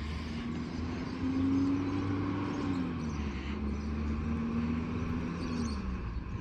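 Garbage truck engine running with a low rumble. Its pitch rises a little and holds, drops about three seconds in, then holds again and falls away near the end.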